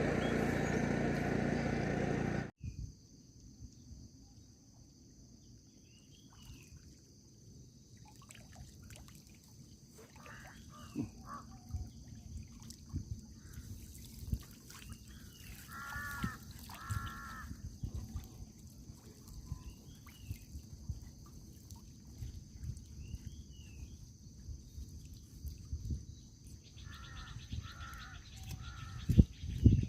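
A motor running loudly cuts off abruptly about two seconds in. Then quiet outdoor ambience follows: a steady high insect drone, a few short repeated bird calls in pairs near the middle and the end, and occasional faint knocks.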